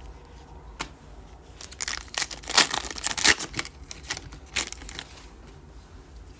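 Trading-card pack wrapper being torn open and crinkled: a run of crackling tears in the middle, loudest about two and a half to three and a half seconds in, then one more brief crinkle a second later.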